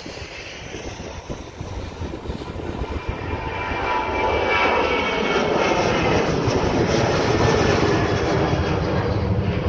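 Boeing 737-800's CFM56-7B jet engines at takeoff thrust as the airliner lifts off and climbs out. The roar grows louder over the first several seconds and then holds steady, with a whining tone from the engine fans.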